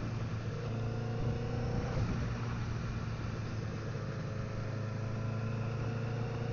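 Honda CBR1000RR's inline-four engine running at low revs while riding, kept below its power band. Its pitch climbs slowly, drops about two seconds in, then climbs gently again.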